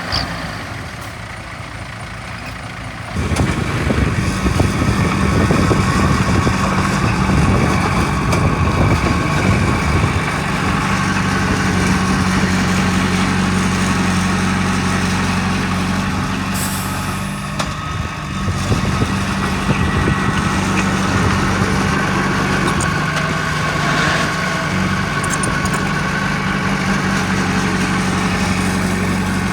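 Heavy diesel engine of earth-moving machinery running steadily, jumping much louder about three seconds in, with a short dip past the middle.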